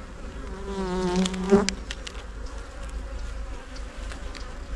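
Honey bees humming around an open hive. About half a second in, a single bee buzzes close to the microphone for about a second, the loudest sound here, and a few light clicks come through, one sharp click near the middle.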